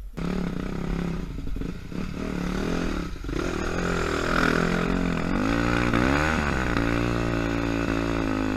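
Yamaha YZ dirt bike engine revving hard in deep snow. The pitch climbs and wavers, dips sharply and rises again about six seconds in, then holds high.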